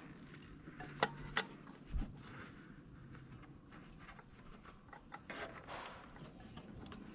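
Faint handling noises of fan belts being worked onto the engine pulleys: a couple of sharp clicks about a second in, a dull knock at about two seconds, then light scraping and rustling.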